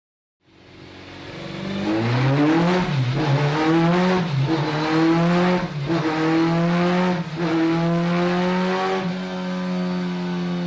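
A race car's 2-litre Ford Duratec four-cylinder engine revving hard during tuning. It comes in about half a second in and climbs in pitch, dips briefly and picks up again several times, then holds a steady high rev near the end.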